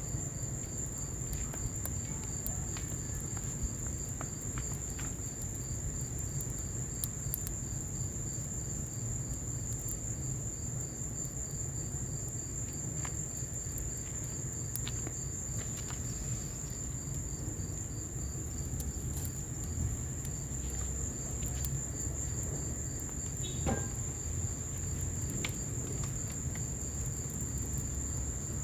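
Insects trilling steadily in a high, even drone, with a second insect chirping in a regular pulse. Underneath are scattered sharp crackles and pops from a wood fire in a patio fireplace, over a constant low rumble.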